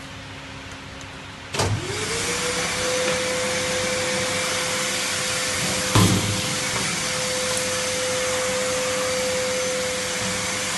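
Car wash vending machine's vacuum motor switching on with a click about one and a half seconds in, its whine rising quickly to a steady pitch over a rush of air. A sharp knock about six seconds in.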